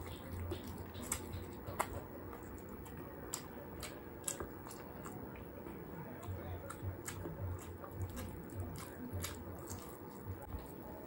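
Close-miked chewing of roast chicken (lechon manok), eaten by hand, with many sharp, irregular wet mouth clicks and lip smacks.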